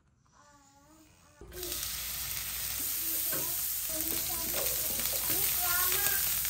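Small dried fish, shallots and garlic sizzling in hot oil in a frying pan as a wooden spatula stirs them; the steady sizzle starts suddenly about a second and a half in.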